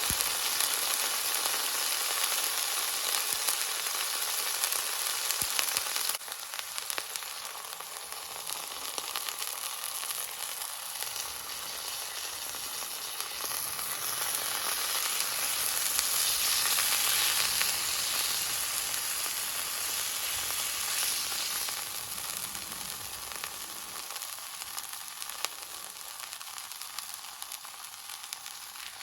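Beef sizzling in a skillet, a steady frying hiss that drops abruptly about six seconds in and swells again partway through.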